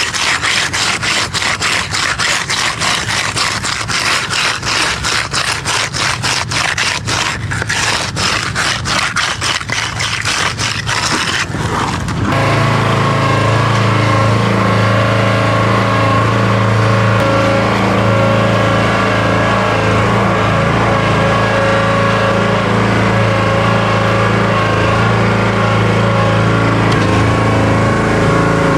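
Quick, repeated scraping strokes for about twelve seconds, then an abrupt switch to a steady low machine drone.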